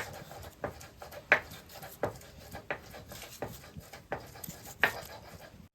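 Kitchen knife chopping on a cutting board in an even rhythm, about nine strokes, a little more than one a second.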